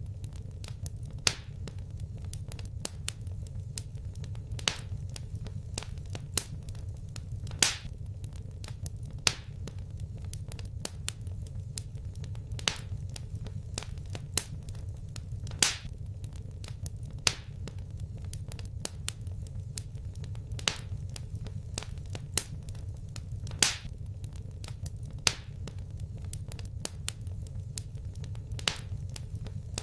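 Wood fire crackling in a fireplace: sharp pops and snaps every second or two, some louder than others, over a steady low rumble of burning.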